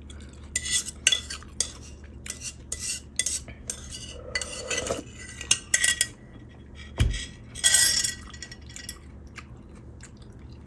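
Eating utensils clinking and scraping against dishes in a run of short sharp clicks, with a dull thump about seven seconds in followed by a brief scrape.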